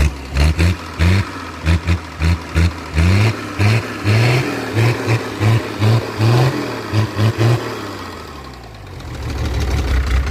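An engine blipped repeatedly, two to three short revs a second, then dropping back to a steady idle near the end.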